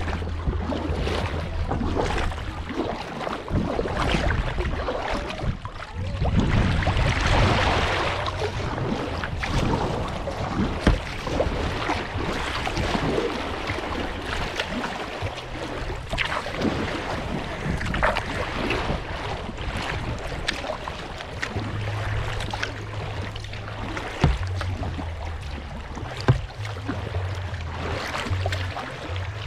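Kayak paddle dipping and splashing in river water, with drips, a louder splash about seven seconds in, and wind rumbling on the microphone.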